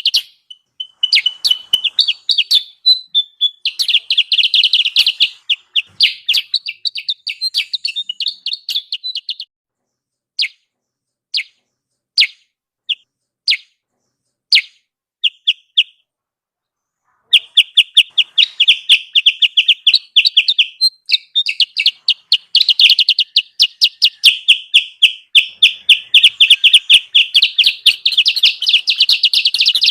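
Kutilang sutra bird lure call: fast chattering runs of short, high chirps. A little past a third of the way in, the runs break up into single chirps about one a second, then a brief silence, before the dense chattering comes back and runs on.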